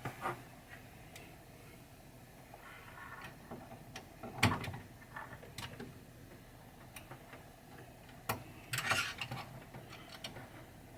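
Scattered, irregular clicks and knocks of small metal and plastic parts being handled and fitted, as the motor and mouth gear of a pinball machine's talking-head mechanism go back together. The sharpest click comes about halfway through, and a quick cluster of clicks follows near the end.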